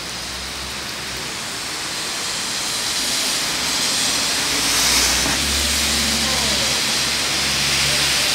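Rain falling as an even rush that slowly grows louder, with a low steady hum joining a little past halfway.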